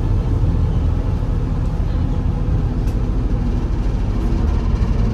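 MAZ-203 city bus heard from inside the cabin, its engine running with a steady low rumble.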